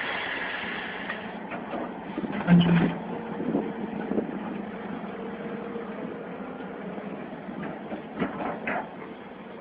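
A heavy vehicle's engine running steadily, with a loud knock about two and a half seconds in and a few lighter clicks near the end.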